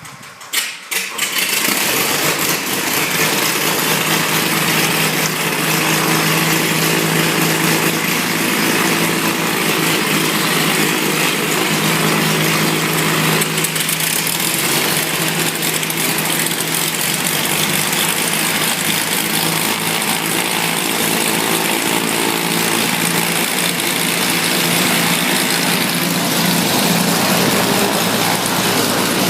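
Beechcraft Baron's piston aircraft engine cranking with a few clicks, catching about a second in, then running steadily at idle.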